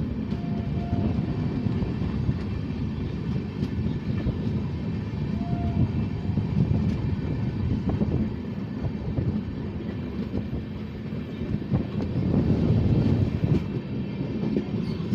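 Indian Railways express train running, a steady rumble with irregular clicks of the wheels on the rails. Faint short high tones sound a few times.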